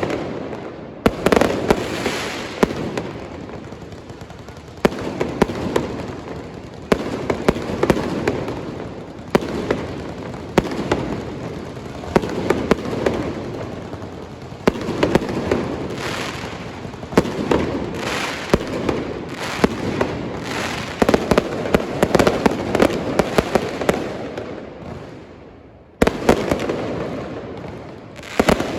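Aerial fireworks show: repeated sharp shell bursts with dense crackling between them, coming in waves. Near the end the barrage dies away into a short lull, then bursts start again suddenly.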